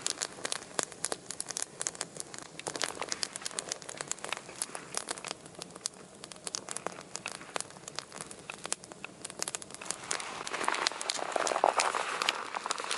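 Wood campfire of small twigs and branches crackling and snapping with many irregular sharp pops.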